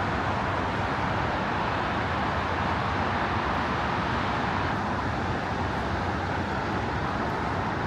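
Steady, even rush of a rain-swollen river's flowing water.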